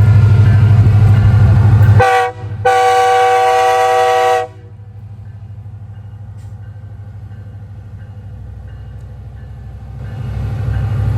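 Freight train locomotive sounding its air horn: a short blast about two seconds in, then a longer blast of about two seconds, a chord of several tones. A loud low rumble comes before the horn, drops away after it, and builds again near the end.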